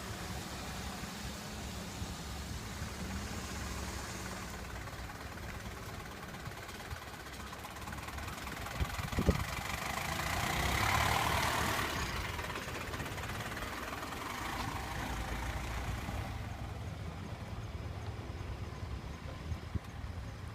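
Diesel engine of a Nissan Cedric 330 220D idling with a steady low rumble. A sharp click comes a little before the middle, then a brief swell of louder noise that fades after a couple of seconds.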